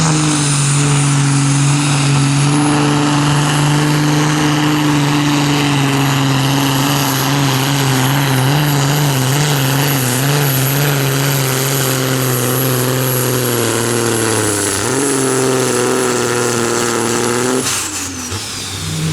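A competition pulling tractor's engine running hard under load during a pull, with a steady high whine above the engine note. The pitch wavers and sags a little toward the end, then the sound cuts off suddenly near the end as the whine falls away.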